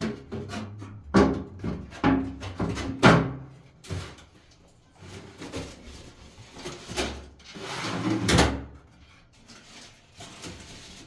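A series of knocks and clatters from things being handled, the loudest about one and three seconds in, then a longer scraping noise that swells and fades about eight seconds in.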